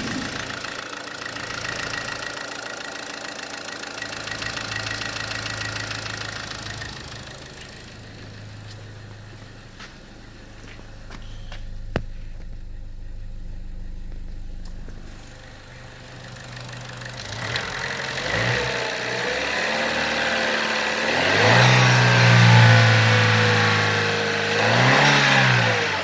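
2012 Chevy Cruze's four-cylinder engine idling steadily, with one sharp click about halfway through, then revved up and let back down to idle in the last third, the second rev short.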